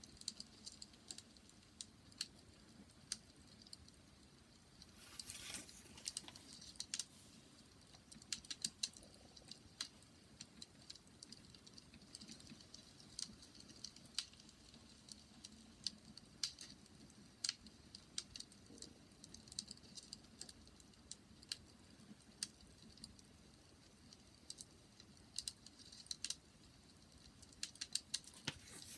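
Faint wood fire crackling: irregular sharp pops and snaps, with a brief hissing burst about five seconds in.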